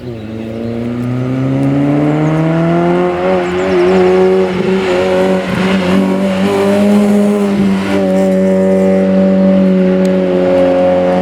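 Citroën Saxo VTS race car accelerating flat out: the engine note climbs for about three seconds, wavers a little in the middle, then holds at high revs.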